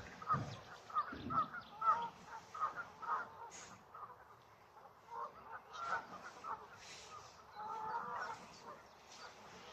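Geese honking: many short calls in quick succession over the first few seconds, then a second bout later on.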